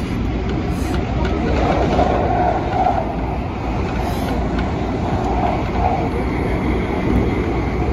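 An MTR Tung Chung line A-train, an Adtranz-CAF electric multiple unit, running at speed, heard from inside the carriage as a steady rumble of wheels and car body. A fainter tone wavers up and down over it.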